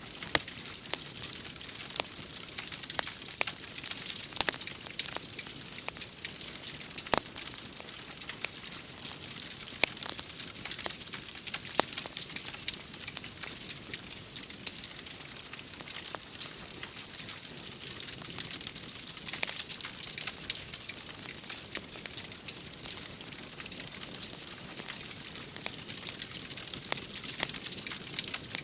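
Wood fire crackling in a fireplace, with irregular sharp pops over a steady hiss of rain.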